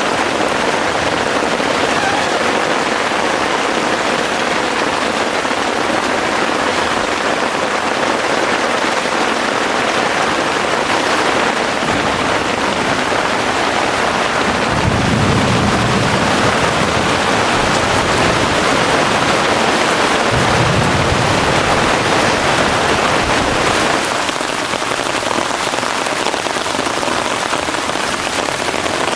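Heavy rain falling steadily, with a low rumble of distant thunder through the middle stretch.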